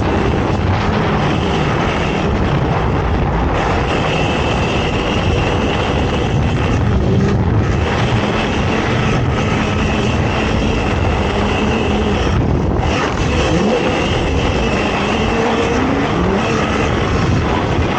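ATV engine running hard, its pitch rising and falling with the throttle over a constant rush of noise.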